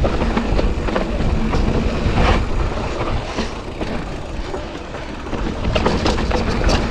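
Mountain bike rolling fast down a rocky dirt trail, heard from a GoPro on the rider: wind rumbling on the microphone, with tyres on rock and dirt and the chain and frame rattling in many quick knocks.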